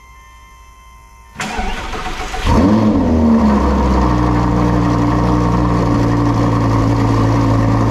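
2009 Lamborghini Gallardo LP560-4's V10 engine, fitted with a Fi aftermarket exhaust, starting up. The starter cranks for about a second, the engine catches with a brief rev flare that rises and falls, then settles into a steady idle.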